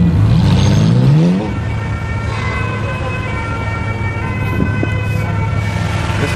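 A supercar engine revs up in a quick rising blip in the first second or so, then settles to a steady idle.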